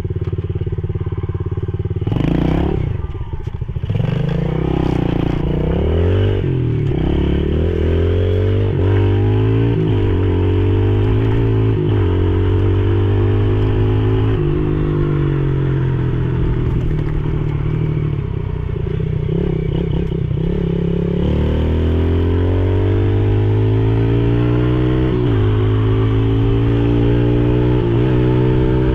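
Yamaha TTR110E pit bike's single-cylinder four-stroke engine revving hard under acceleration, its pitch climbing steadily and dropping sharply at each gear change, several times over. There is a brief rattle and dip in the engine note about two to three seconds in.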